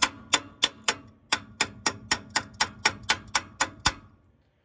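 A steady run of sharp mechanical clicks, evenly spaced at about three to four a second, that stops about four seconds in.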